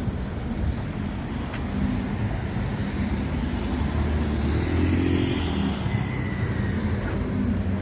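Road traffic: a car engine grows louder and then fades as it drives past, about midway through, over a steady low rumble.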